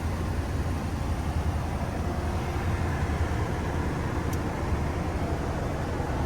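Steady low rumble with a hiss above it: outdoor background noise, with one faint tick about four seconds in.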